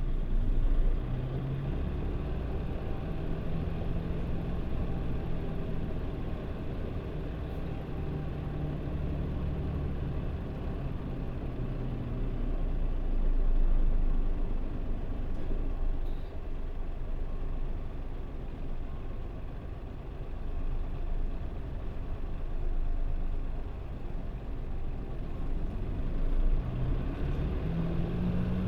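Mitsubishi Fuso Aero Star city bus's diesel engine and drivetrain running on the road, heard from inside the cabin: a steady low hum whose pitch rises and falls as the bus drives, with road noise underneath.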